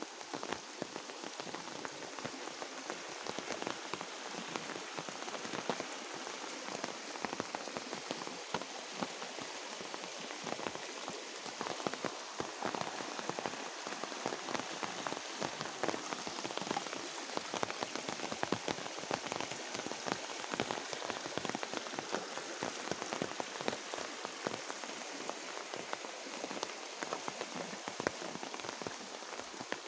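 Steady light rain falling, a continuous hiss dotted with many separate drop ticks close by.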